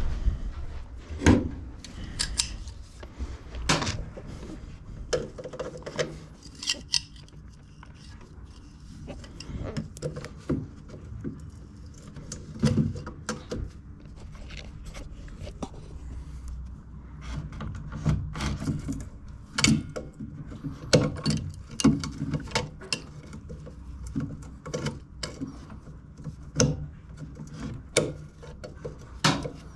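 Irregular clicks, knocks and rattles of hands handling and inspecting a Stiga Euro 50SH lawn mower's parts, with a low steady hum underneath.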